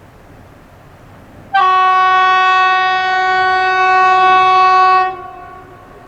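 Diesel locomotive horn sounding one long, steady blast of a single pitch for about three and a half seconds. It starts about a second and a half in and cuts off sharply.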